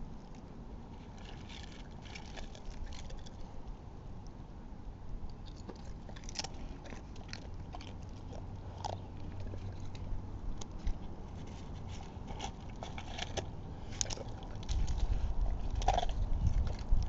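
Irregular small crunches and clicks of a squirrel chewing nuts, over a low outdoor rumble that swells near the end.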